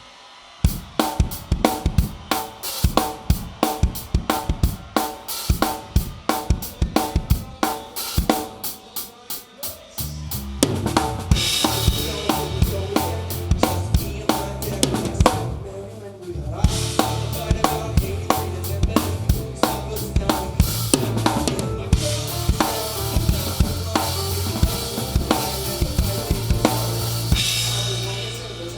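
Live rock band with the drum kit close and to the fore. The drums start alone with a steady beat of about four hits a second over repeating notes. About ten seconds in, the full band comes in with bass and cymbals and keeps playing.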